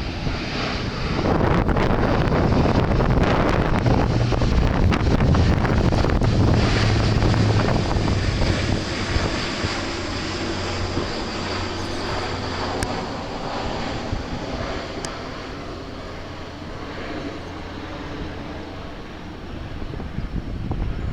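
Airbus A400M Atlas's four turboprop engines running as the aircraft passes, with a low hum under a steady rush; loudest in the first half, then slowly fading. Wind buffets the microphone.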